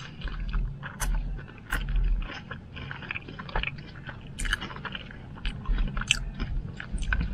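Close-up chewing and wet mouth smacks of someone eating animal-style fries topped with melted cheese and sauce. Short clicks and smacks come at an irregular pace.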